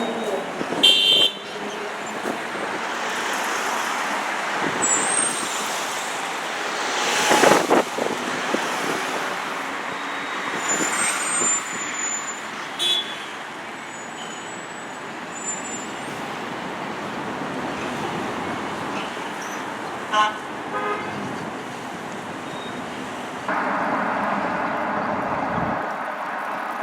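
Road traffic going by, with short horn toots near the start and a steady horn blast held for about two seconds near the end.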